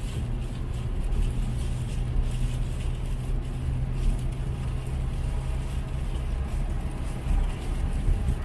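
Steady road noise and a low engine drone heard inside a moving car's cabin.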